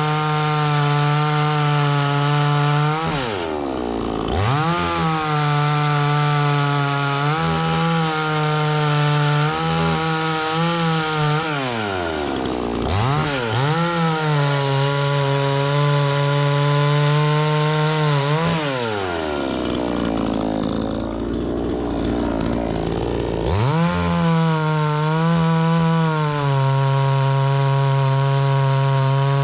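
Two-stroke chainsaw running at full throttle while cutting wood. Its engine note drops sharply three times as it bogs down under load in the cut, the longest for about five seconds near the end, and climbs back to full revs each time.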